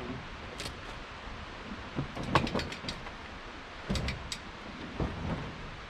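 Scattered knocks and clanks of hard objects being handled, the sharpest one about two and a half seconds in, with a few more near four seconds and five seconds.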